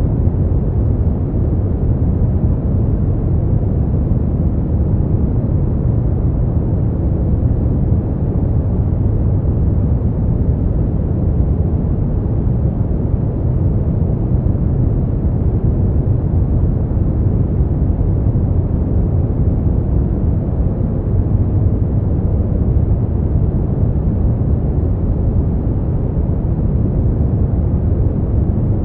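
Steady brown noise: an even, deep rumbling hiss, strongest in the low end and dull above, with no change in level.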